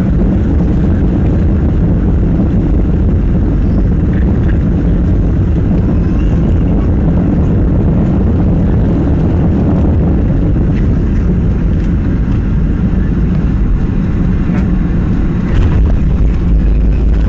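Steady roar of a Boeing 737-800's CFM56 engines and airflow heard inside the passenger cabin, with the low rumble growing louder near the end.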